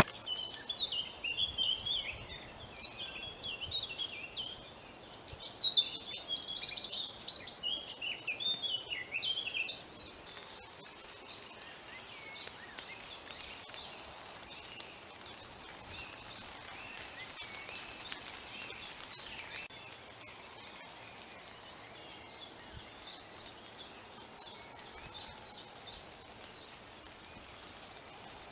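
Wild birds singing: a loud, varied run of short chirping phrases for about the first ten seconds, then fainter, quicker chirps and trills.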